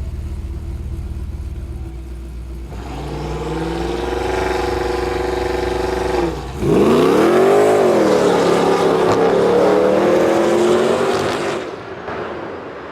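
High-powered turbocharged cars accelerating hard in a drag race. The engine note climbs steadily from about three seconds in and breaks off briefly just after six seconds. It then comes back louder, its pitch swooping up and then down, and fades near the end.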